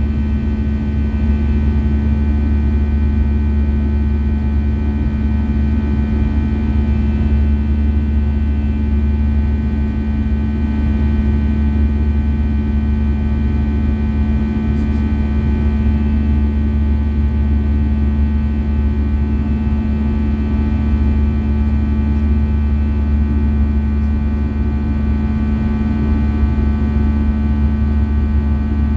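Steady cabin drone inside an Airbus A320-214 in flight: a low rumble from the engines and airflow, with a set of steady whining tones over it that hold unchanged throughout.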